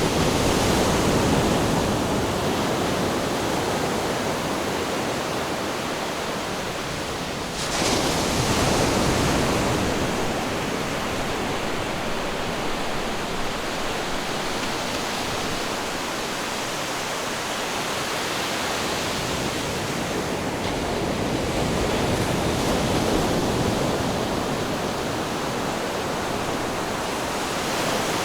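Ocean surf: waves breaking and washing in as a continuous rush, with a fresh surge right at the start and another about eight seconds in, then gentler swells.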